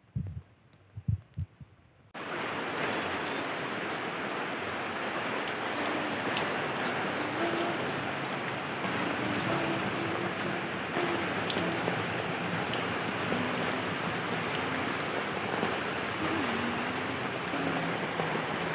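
Heavy rain falling: a dense, steady hiss that cuts in suddenly about two seconds in, after a few soft low thumps.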